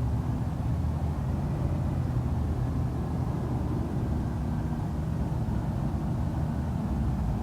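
Diesel engine of a City of Ontario garbage truck (trash truck 9103) running steadily, a low even hum with several held tones.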